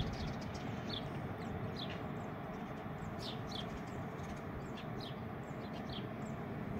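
Small birds chirping: short, high notes that slide quickly downward, about one or two a second, over a steady rushing background.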